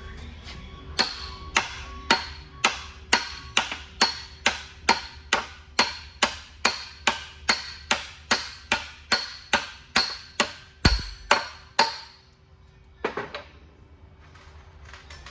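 Hammer striking metal parts during transmission assembly: a steady run of a little over twenty sharp blows, about two a second, each ringing briefly, stopping about twelve seconds in, followed by a couple of lighter knocks.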